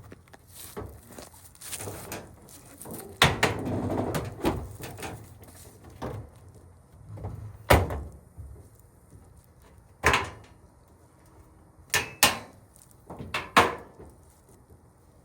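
Sheet-metal appliance parts being handled while a washer or dryer is dismantled: a string of sharp metal clanks and knocks, with a denser rattling clatter about three to five seconds in.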